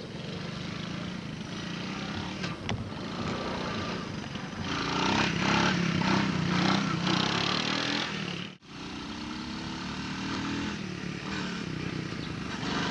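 A small engine running steadily with a low drone, louder for a few seconds in the middle. It breaks off abruptly about two-thirds of the way through, then carries on.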